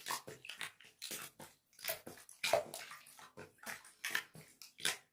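Wet slime being kneaded and squeezed by hand with soothing gel mixed in. It makes irregular squelching and sticky crackling sounds.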